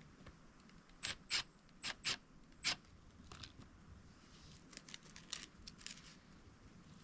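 Five sharp clicks with a brief high ring, in under two seconds, then a few fainter ticks.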